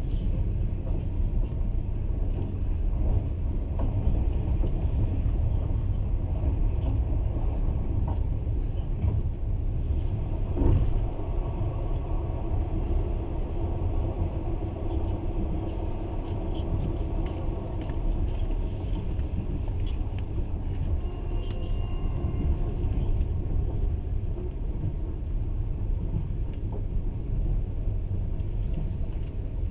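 Passenger train running at speed, heard from inside the carriage: a steady low rumble of wheels on rails, with one sharp knock about eleven seconds in and faint whining tones that come and go in the middle.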